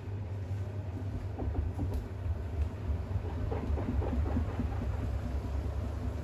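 Bosch WAX32GH1 washing machine running through its drain and load-distribution stage with a load of towels: a steady low hum with scattered soft clatters and sloshes in the middle.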